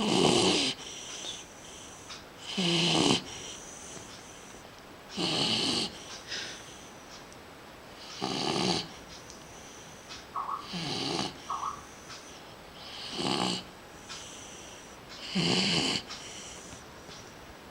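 A dog snoring in its sleep: seven snoring breaths, one about every two and a half to three seconds.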